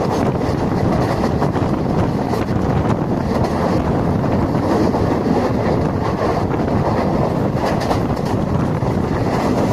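Passenger train running along the track: a steady rumble of wheels on the rails, with wind buffeting the microphone.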